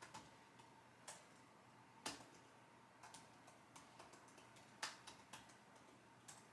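Computer keyboard keys pressed slowly and unevenly: a scattering of soft, irregular clicks, with two louder keystrokes about two and five seconds in.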